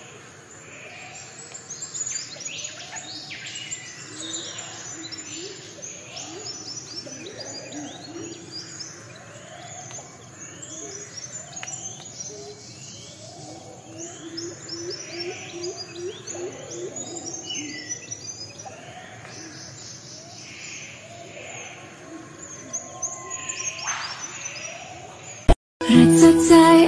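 Birds calling: many quick high chirps and twitters over a series of lower repeated notes about once a second. The calls cut off suddenly near the end.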